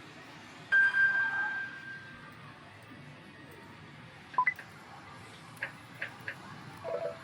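Yoshimune pachislot machine's electronic sound effects: a loud steady beep lasting about a second and a half, then short blips and three quick clicks about a third of a second apart, the pattern of a spin started and its three reels stopped.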